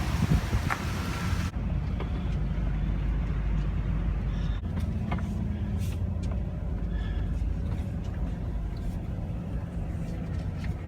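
Cargo van driving, a steady low engine and road rumble heard from inside the cab, with a few light clicks and rattles. A hiss in the background cuts off suddenly about one and a half seconds in.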